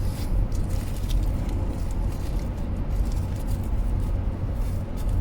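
Steady low rumble of road and engine noise inside a moving car's cabin, with a few faint light rustles or clicks over it.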